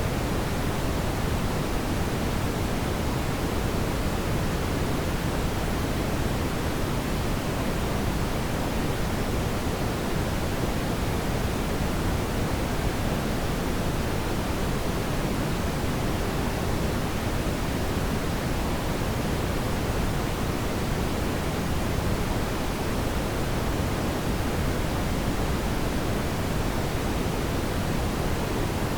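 Steady brown noise: an even, deep hiss weighted toward the low end, without change.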